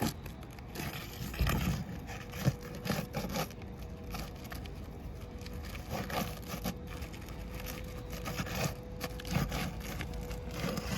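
A roofing pry tool scraping and knocking under asphalt shingles, working roofing nails loose to free the nailing strip, with irregular scrapes and sharp knocks.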